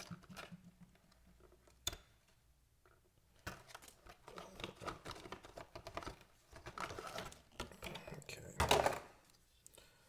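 Hands handling a marine shore power inlet and its loose parts: a run of small clicks, knocks and rustles, with a louder rustle near the end.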